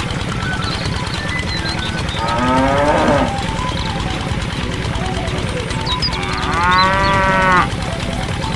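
Cow mooing twice: a short moo about two seconds in and a longer one near the end that stops abruptly, over a steady low hum.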